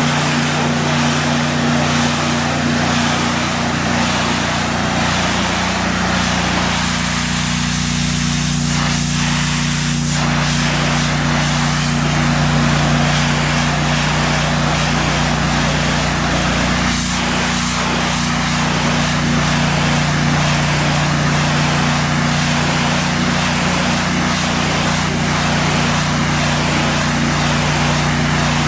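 Pressure washer running steadily: the even drone of its engine under the hiss of the high-pressure water spray, which briefly eases a couple of times.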